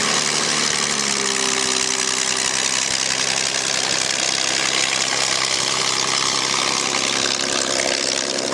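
Piston-engined propeller aircraft running steadily, with several engine tones drifting slightly in pitch about a second in.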